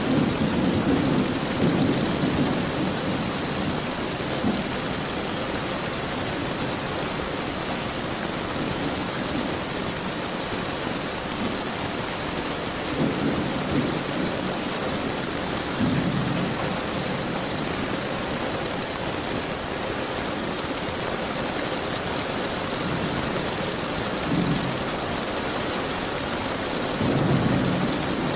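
Steady heavy rain with low rolls of thunder, one rumbling at the start, others around the middle and near the end.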